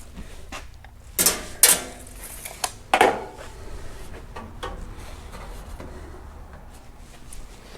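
Metal clanks and knocks from adjusting a car's sheet-metal engine-bay panels: four sharp strikes between about one and three seconds in, the last ringing briefly, then lighter handling noises.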